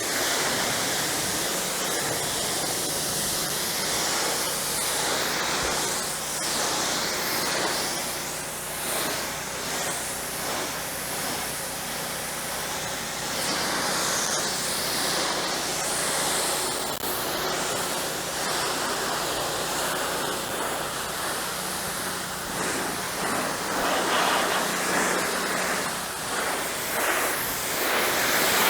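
Pressure washer spraying: a steady hiss of the high-pressure water jet striking the house, with the machine's steady low hum underneath.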